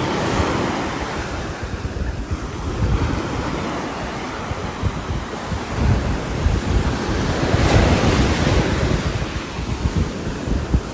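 Rain falling on a roof, a continuous wash of noise that swells and eases, with a low rumble underneath.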